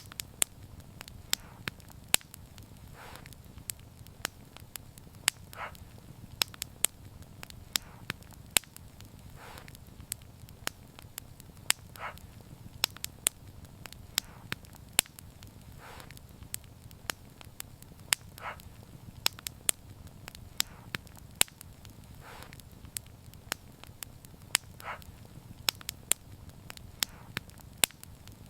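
Wood fire burning: a steady low rumble of flames with frequent sharp, irregular crackles and pops, and a short soft burst every few seconds.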